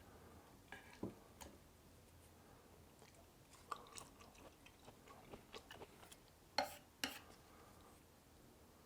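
A person chewing food close to the microphone: soft, scattered wet mouth clicks, with two louder clicks about half a second apart near the end.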